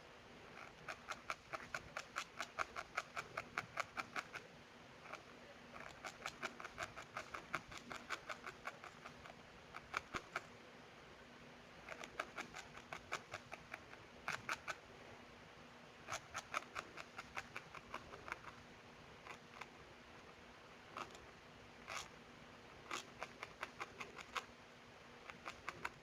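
Felting needle jabbing repeatedly into wool, a run of rapid pokes at about five or six a second in bursts of a few seconds with short pauses, thinning to scattered pokes in the second half.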